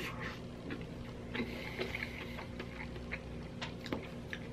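A person chewing a mouthful of burger, with small wet mouth clicks, and a light rustle of paper wrapping near the end. A steady low hum runs underneath.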